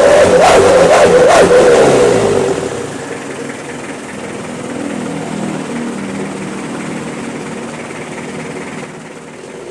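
Mitsubishi L300 engine revving through a homemade 'wolf' exhaust (knalpot srigala), a wavering whistling tone riding over the engine. After about two seconds the revs drop and the engine runs more quietly near idle, and the tone comes back right at the end.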